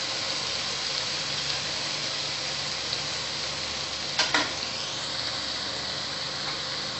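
Chopped onion, tomato paste and ground spices sizzling steadily in hot oil in a frying pan as the masala cooks down. Two short, sharp knocks come close together about four seconds in.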